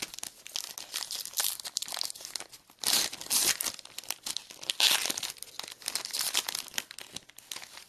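Foil trading-card pack wrapper crinkling and tearing as it is opened by hand, a dense run of crackles with two louder tearing bursts about three and five seconds in.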